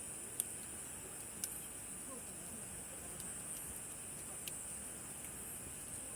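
A steady, high insect chorus of a summer night, with a few sharp pops from a crackling wood campfire: the loudest about half a second in, another about a second and a half in, and a smaller one near four and a half seconds.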